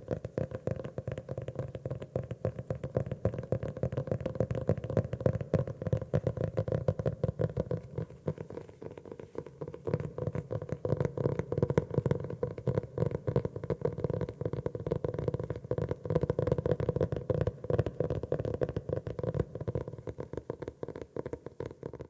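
Fingertips tapping quickly on a notebook's cover, a fast, dense patter of soft hollow taps with a slight ring, easing off briefly about halfway through.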